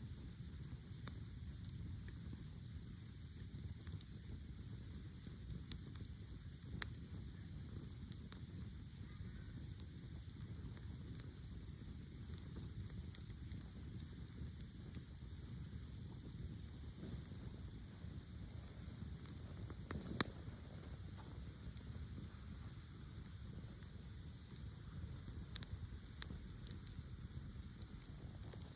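Crickets trilling steadily in the night, a little quieter after about three seconds, over a campfire crackling with scattered sharp pops, the loudest about two-thirds of the way through.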